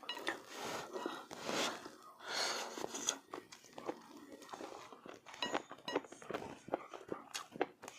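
Close-up eating sounds of a person chewing a meal: soft rustling swells in the first few seconds, then a run of short, sharp mouth clicks and smacks.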